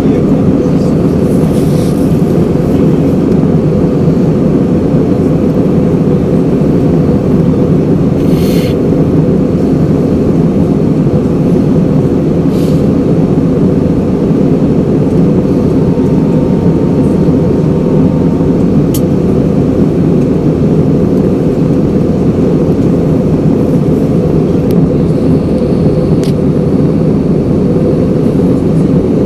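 Steady cabin noise inside a passenger airliner: an unbroken low rush of engines and airflow, with a few faint clicks.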